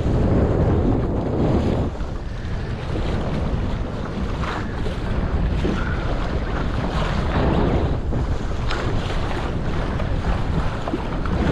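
Wind buffeting the microphone and water rushing and splashing along the hull of a sailing dinghy under way, with a steady low rumble and occasional short splashes.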